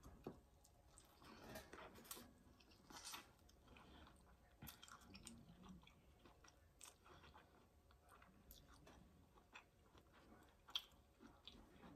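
Faint chewing and wet mouth sounds of a mouthful of seafood boil corn on the cob being eaten, with irregular small clicks and smacks. One sharper click comes near the end.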